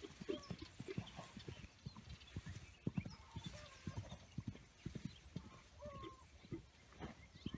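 Hoofbeats of a yearling Morgan colt on the move: several hoof strikes a second in an uneven rhythm.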